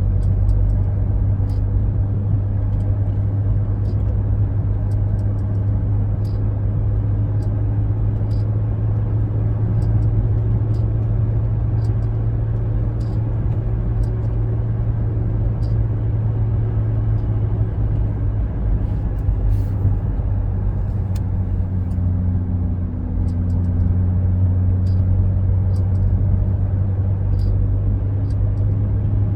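Ferrari 458's 4.5-litre V8 running steadily, with scattered light clicks on top: the steering noise heard when the wheel is turned, which sounds like marbles hitting each other.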